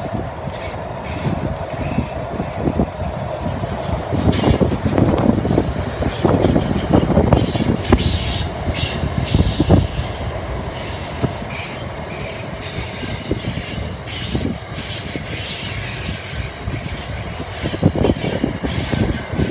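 A train's cars rolling past at close range, the wheels knocking over rail joints and squealing high in the middle of the pass.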